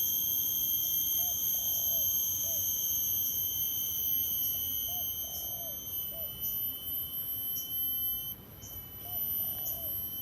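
Chorus of cicadas: a steady, high-pitched, ringing whine of several held tones, easing slightly in the last couple of seconds. Underneath, a dove coos softly in short, repeated phrases.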